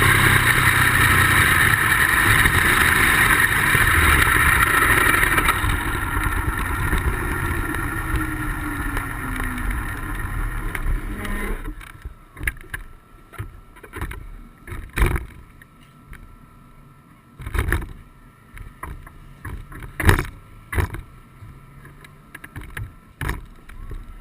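Ducati motorcycle running with heavy wind rush, slowly winding down as it slows, its note falling in pitch. The engine noise cuts off abruptly about 12 seconds in, leaving scattered knocks and bumps.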